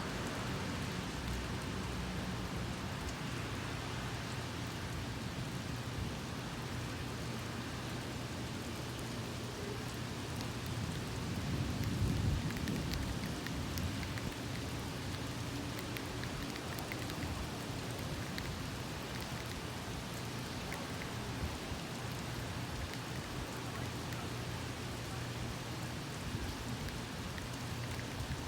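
Steady rain falling, with a low rumble of thunder swelling and fading about twelve seconds in.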